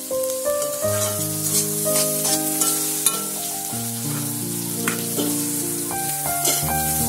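Bitter gourd pieces sizzling in hot oil in a black iron wok, stirred with a metal spatula that scrapes against the pan now and then. Background music of held notes runs underneath.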